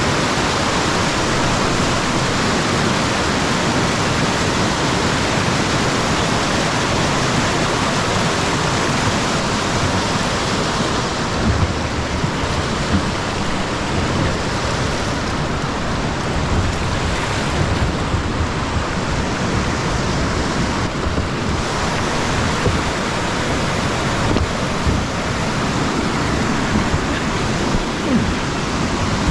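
Loud, steady rushing of creek whitewater at a rapid. Irregular low thuds come through from about the middle on.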